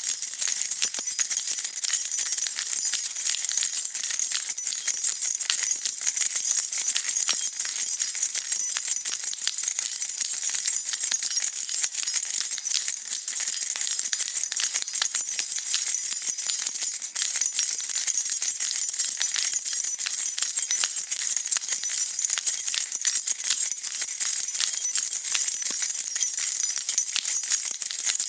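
A bunch of metal keys jingling continuously, a dense, steady stream of bright little clinks and rattles with no breaks.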